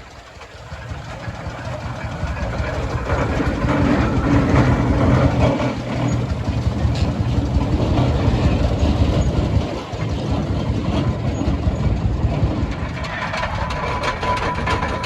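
Clayton & Shuttleworth steam traction engines running past, growing louder over the first four seconds and staying loud, with a brief dip near the middle.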